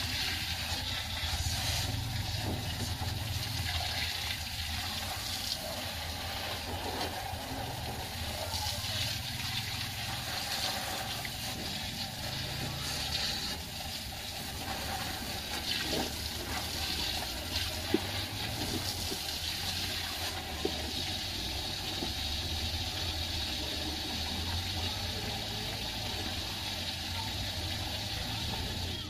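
Water spraying with a steady hiss over a constant low motor hum.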